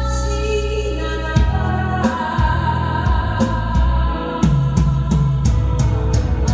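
Live band music for a slow Japanese ballad: sustained keyboard chords over a bass line, with drums entering about a second and a half in and a quick, steady cymbal beat from about halfway.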